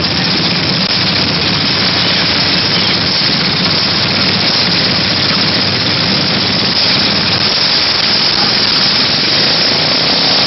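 Mini bike's small engine running steadily under a loud, even hiss.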